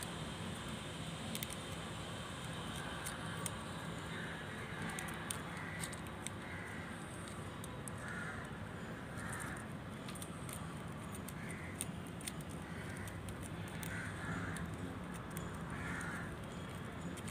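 A bird calling again and again outside, about a dozen short harsh calls roughly a second apart, over faint light clicks.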